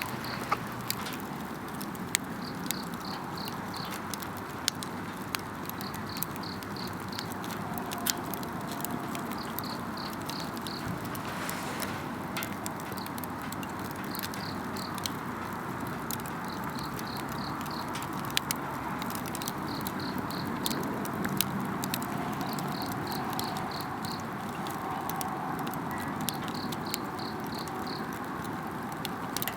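Wood campfire crackling with scattered sharp pops over a steady hiss. An insect chirps in short pulsed trills of four or five beats, repeating about every two seconds.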